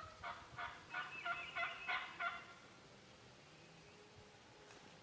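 Wild turkey yelping: a series of about eight short, evenly spaced notes over a little more than two seconds.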